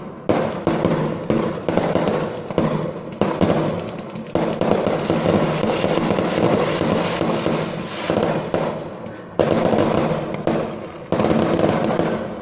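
Fireworks going off in a rapid run of sharp bangs, each trailing into crackle, building to an almost continuous barrage in the middle before a few last big bangs near the end.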